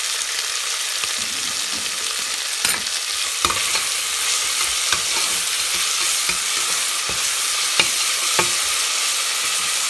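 Green peas, onion and whole spices frying in oil in a steel pot with a steady sizzle. A steel spoon stirs through them, scraping and clicking against the pot now and then.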